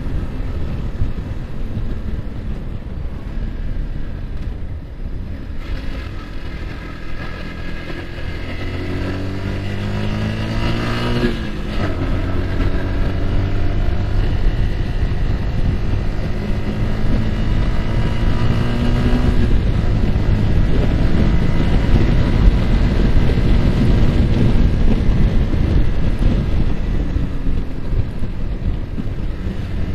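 Yamaha R15 motorcycle's single-cylinder four-stroke engine pulling under acceleration: the revs climb over a few seconds and fall sharply at an upshift about a third of the way in, then climb again and drop once more past the middle. Wind rushes over the microphone throughout.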